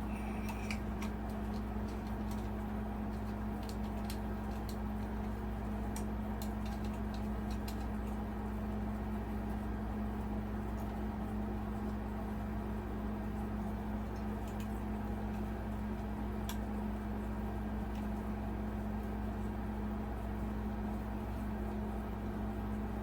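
Steady hum of a room air conditioner running, with a few light clicks and taps from handling the glass light shades, mostly in the first half.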